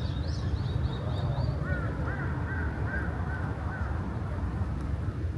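Birds calling outdoors: a high series of quick chirps in the first second and a half, then a run of about six short, rising-and-falling call notes repeated every few tenths of a second, over a steady low rumble.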